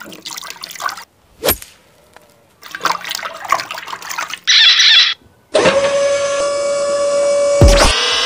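A run of edited cartoon-style sound effects: watery, rushing noise in two stretches with a sharp knock between them, then a short high chirp, then a long steady tone from about five and a half seconds, and springy boing glides near the end.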